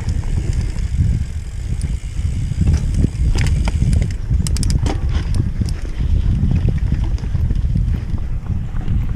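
Mountain bike being ridden down a dirt trail: a steady rumble of wind on the microphone and tyres on the ground, with a short run of clicks and rattles from the bike over bumps about halfway through.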